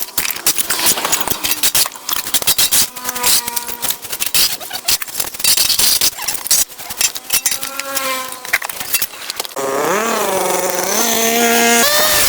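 Small two-stroke engine of a handheld cutting tool running at high revs, its pitch rising and falling, with dense crackling as it cuts through brush. About ten seconds in the crackling stops and the engine whine runs on clean.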